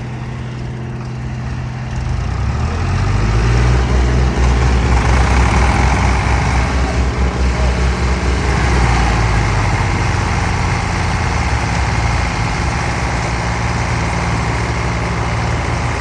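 Tractor diesel engine running, then revving up hard about two seconds in and labouring under heavy load as it strains against a loaded trolley, easing back a little after several seconds.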